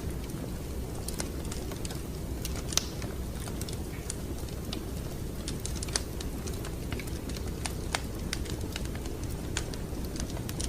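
Wood fire crackling in a fireplace: irregular sharp pops and snaps over a steady low rumble, the loudest pops coming about three, six and eight seconds in.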